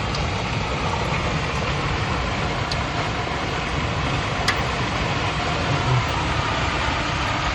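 Strong storm wind rushing steadily, gusting against the microphone, with a few sharp ticks about three and four and a half seconds in.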